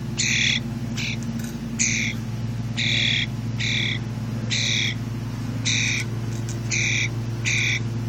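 A young hand-raised wild bird giving repeated harsh squawking calls, about one every half second to a second, over a steady low hum.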